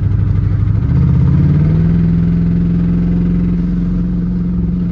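Jeep Grand Cherokee SRT's 6.4-litre HEMI V8 running at idle. About a second in the engine speed rises and it holds at a steadier, higher pitch. It is 'tweaking': the car has just stalled on its own and won't respond properly, which the owner puts down to the throttle control.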